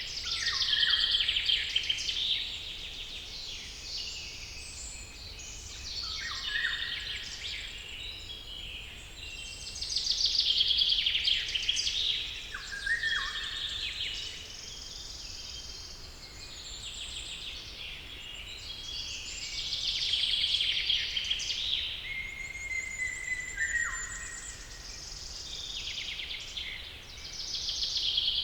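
Songbirds singing in a forest: a loud, busy song phrase comes about every ten seconds, with shorter phrases between them, some ending in a falling note.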